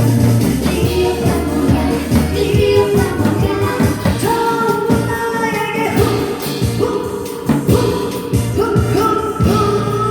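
A woman singing a song live over recorded backing music with a steady beat.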